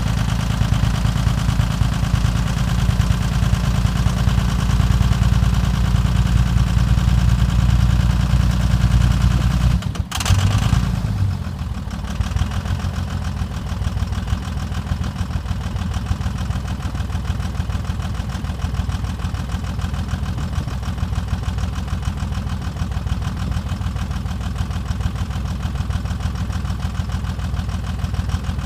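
A 2001 Dodge Ram's 24-valve 5.9 L Cummins inline-six diesel idles steadily in deep cold, not long after a −35 °C cold start. About a third of the way in there is a sudden brief disturbance, and after it the idle is quieter and less heavy in the low end.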